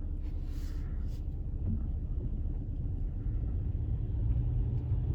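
Low, steady rumble of a car rolling slowly along a bumpy driveway, heard from inside the cabin, with a brief hiss about half a second in.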